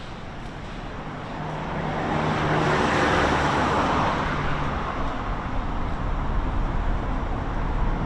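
Road traffic: a motor vehicle passes close by, its engine and tyre noise swelling to a peak about three seconds in, followed by steady traffic noise.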